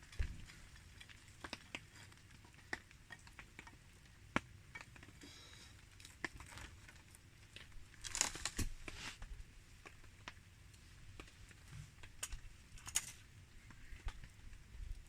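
Campfire crackling: wood popping in irregular sharp snaps, with a denser run of crackles about eight seconds in and another near thirteen seconds.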